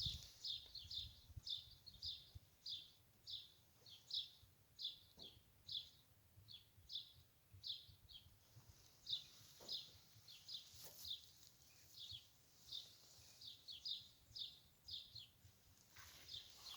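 Small songbird chirping over and over: a long run of short, high chirps, about two to three a second, faint against a quiet outdoor background.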